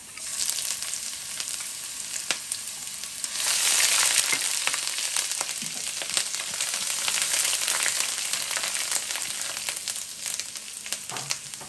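Minced garlic and fresh grated ginger sizzling in hot oil in a wok, with many small pops; the sizzle grows louder about three and a half seconds in.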